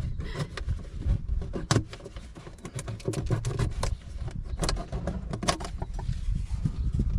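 Irregular metallic clinks and rattles from hand tools being handled while working on a van, over low rumbling handling noise.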